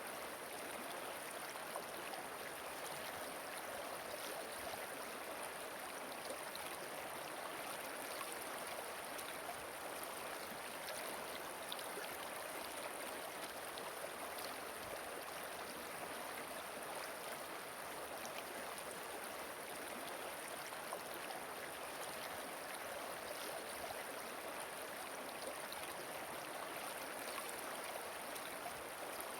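Flowing stream water, a steady even rush with faint small splashes throughout.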